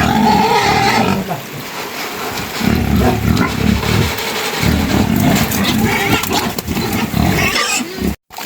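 Low, rough animal calls in irregular bursts, with a brief higher call near the start; the sound cuts out for a moment near the end.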